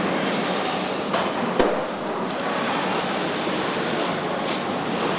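Truck assembly plant floor noise: a steady hiss of machinery and air, with one sharp metallic knock about a second and a half in.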